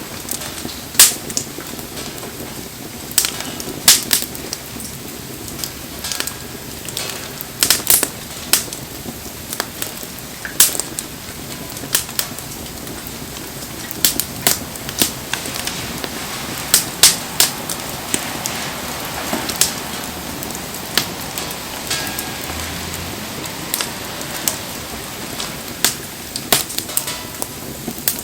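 Wood campfire crackling, with irregular sharp pops of burning wood over a steady hiss of rain falling.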